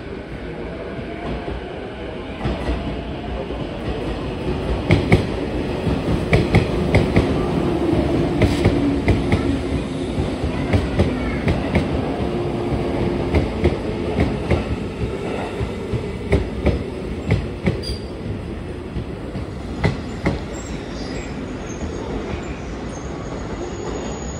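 A train running past close by, its wheels clattering over rail joints in a rapid clickety-clack over a steady rumble; the clacking builds from about two seconds in and eases off near the end.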